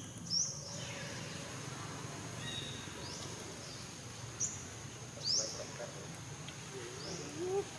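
Outdoor ambience: a steady high insect drone with a few short, sharp rising chirps spread through it. Near the end come brief low wavering calls.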